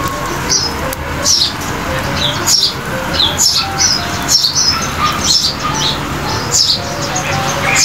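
Birds chirping outdoors: short, sharp high calls repeating about once a second, with several birds calling over one another.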